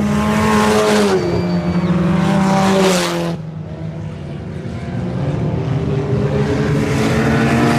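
IMCA Sport Compact race cars' four-cylinder engines running hard as the field passes by. The engine pitch drops as cars go by, about a second in and again near three seconds, then eases off briefly before building again as more cars come around.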